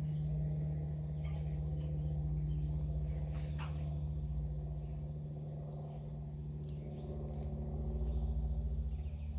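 Two short, high hummingbird chirps about a second and a half apart, over a steady low hum.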